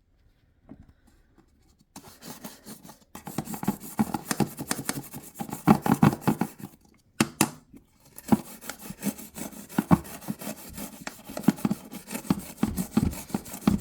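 Toothbrush bristles scrubbing a plastic washing machine detergent drawer in quick back-and-forth strokes. They start about two seconds in, stop briefly a little past the middle, then carry on.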